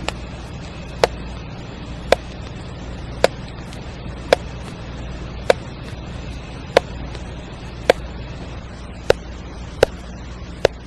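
An insect calling with short, sharp clicks at an even pace of about one a second, over a steady low background rumble.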